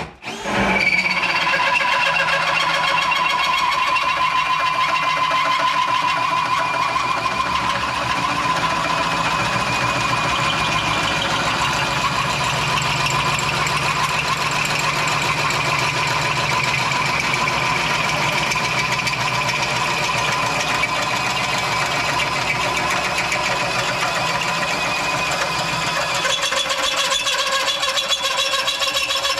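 Steady machine noise with a fast, even buzzing pulse and a sustained whine.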